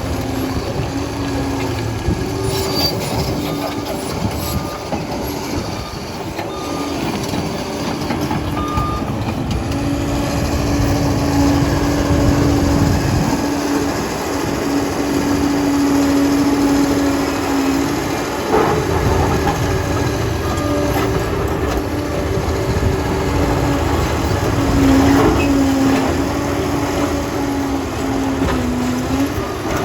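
Liebherr PR 746 crawler dozer at work: its diesel engine runs steadily, its pitch rising and falling with the load, over knocks and clanks from the steel tracks.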